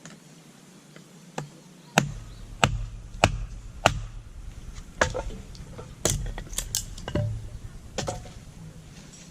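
Firewood being split: about a dozen sharp wooden knocks, irregular, roughly one every half second to a second.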